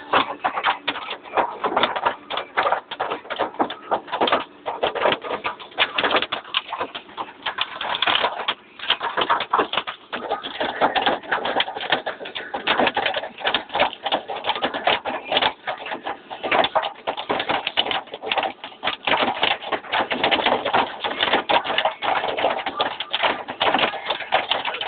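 Hailstones pelting down in a dense, irregular clatter of many small impacts.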